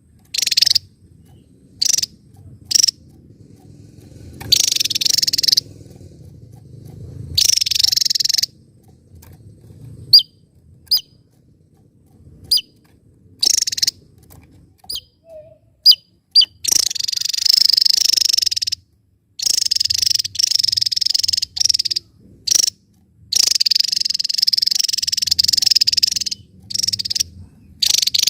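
Javan tesia singing: repeated high-pitched bursts of rapid, buzzy song, broken up by short sharp single notes, with the bursts running longer and closer together in the second half.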